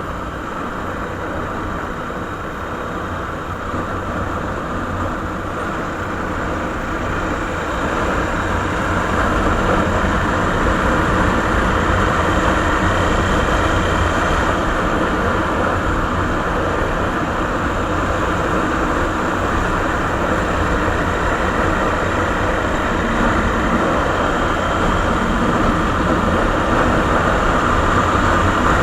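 Suzuki Savage (Boulevard S40) single-cylinder four-stroke engine running steadily through its stock exhaust, growing louder about a quarter of the way in and then holding even.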